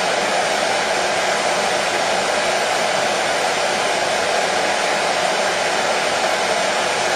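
Hair dryer running steadily: an even, unchanging rush of air and motor noise.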